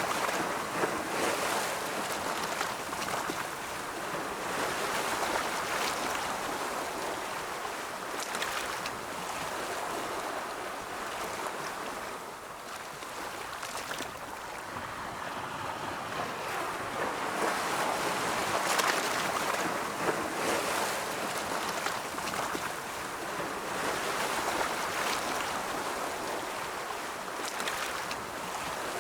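Ocean waves breaking and washing ashore, a continuous surf hiss that swells and eases every few seconds, with a louder surge about two-thirds of the way through.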